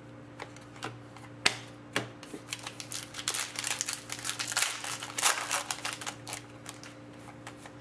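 Trading cards being handled and flipped through by hand: a few separate sharp clicks, then a dense run of quick flicking and rustling about three seconds in, over a faint steady hum.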